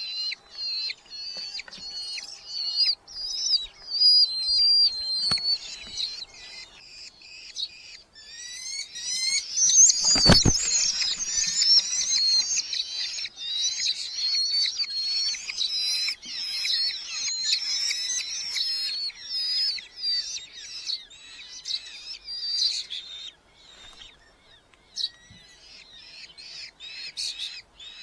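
Red-footed falcon chicks calling in quick runs of short, high, repeated notes. About ten seconds in there is one heavy thump, and the calling turns louder and denser for roughly twelve seconds before thinning out.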